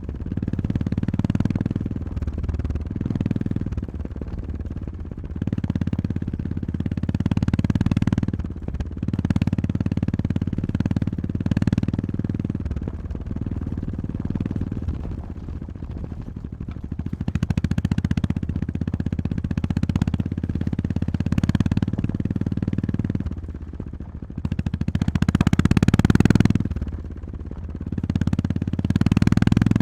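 Honda GB350S single-cylinder engine on a ride, pulling and easing off every second or two as the throttle opens and closes, loudest about 25 seconds in.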